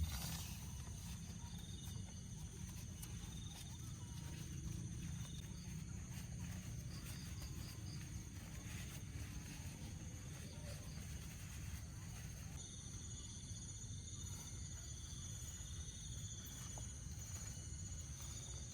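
Night insects trilling steadily in high, thin tones, with a second, stronger trill starting about two-thirds of the way through. A steady low rumble runs underneath.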